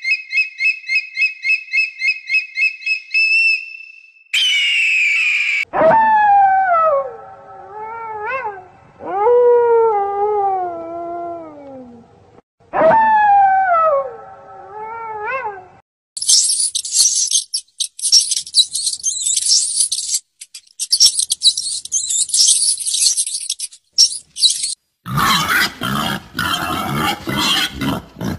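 A series of different animal calls. First a fast, high chirping trill, then a short harsh burst. Then long howls that slide down in pitch, in two groups, typical of wolves howling. After them comes a stretch of high hissing and crackling, and a loud, rough, noisy call near the end.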